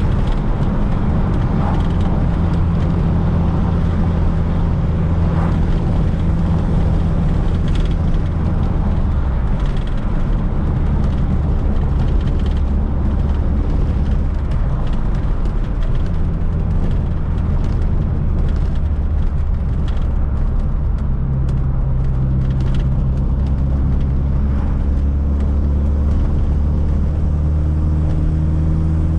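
Fiat Coupe 16V Turbo's turbocharged four-cylinder engine and road noise heard from inside the car while driving: a steady low drone. Near the end the engine's pitch rises as the revs climb.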